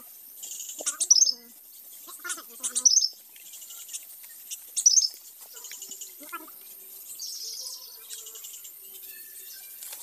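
Short, sharp bird chirps, three loud ones about a second, three seconds and five seconds in, with a few fainter calls between, over a steady high buzz of insects.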